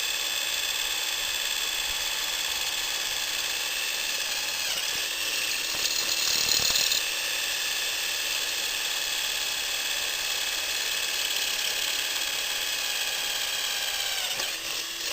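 Electric drill motor running steadily, its pitch sagging briefly twice, with a short, louder, higher-pitched burst about six seconds in that fits the bit cutting into the slat.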